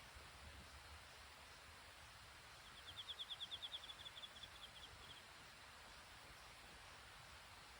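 A bird's rapid trill of high chirps, about ten a second, starting loud and fading out, about three seconds in, over a faint, near-silent background.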